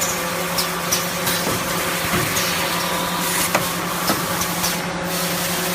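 Automatic blister packing machine running: a steady motor hum with frequent clicks and short bursts of hiss as its stations cycle.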